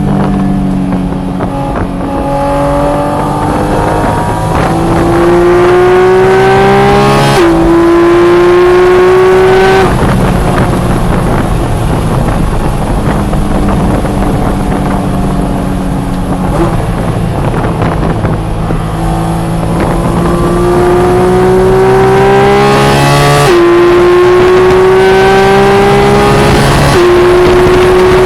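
Porsche 718 Cayman GT4 RS's naturally aspirated flat-six pulling hard on track, its pitch climbing with the revs. There are quick upshifts about seven seconds in and twice near the end. It eases off around ten seconds in, then builds again.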